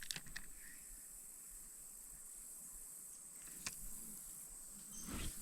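Steady high-pitched chirring of insects in the creekside woods, with a few faint clicks and a brief low bump near the end.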